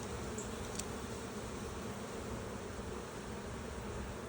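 Honeybees buzzing steadily around an opened hive, the even hum of many bees in the air at once.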